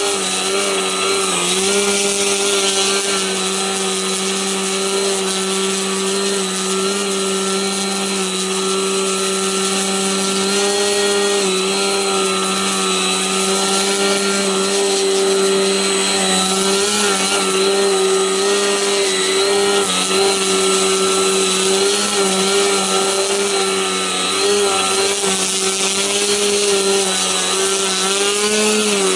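Electric motor and propeller of an Extra 50 ARF radio-controlled aerobatic plane held in a hover, a steady buzzing drone whose pitch wobbles a little with the pilot's throttle corrections, more so in the second half.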